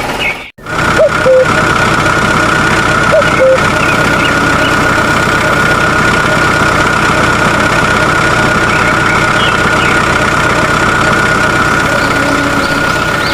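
Small electric motor of a homemade model conveyor or truck running steadily with a constant high whine and a rattling mechanical clatter, cut off briefly about half a second in and then starting again.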